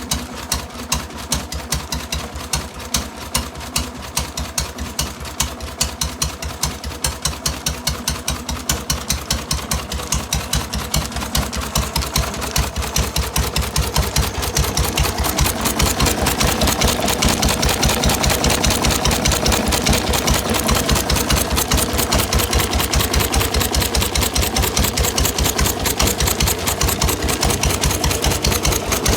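Circa-1917 Felix single-cylinder stationary engine with hopper cooling, running with a steady, evenly repeating beat. The beat quickens and grows louder about halfway through.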